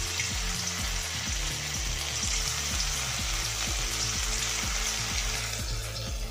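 Soya chaap pieces sizzling as they are dropped into smoking-hot mustard oil in a steel kadhai on high flame, the start of deep-frying. The sizzle starts suddenly and eases near the end, over background music with a steady beat.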